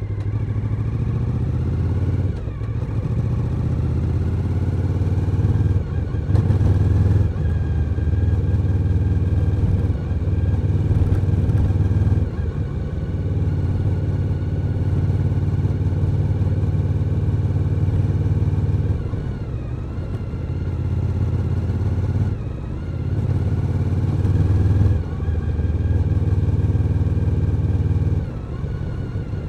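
Suzuki SV1000N's 90-degree V-twin engine running under way as the motorcycle is ridden. The engine note drops briefly several times and picks up again as the throttle is opened.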